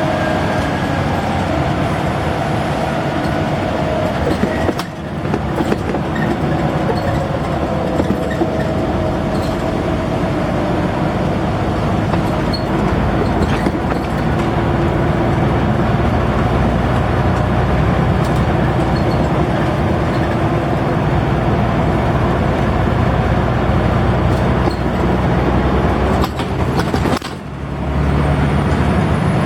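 Scania N94UD double-decker bus engine running under way, with a steady mechanical drone whose pitch slowly falls and rises. The sound dips briefly twice, about five seconds in and near the end, and the low rumble is heavier in the second half.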